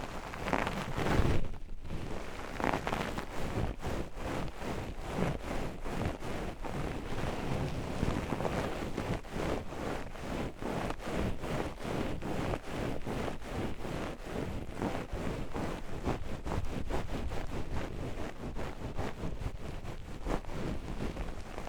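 Oiled hands rubbing and massaging the ears of a 3Dio binaural microphone, a continuous run of quick, slick friction strokes with a brief pause just before two seconds in.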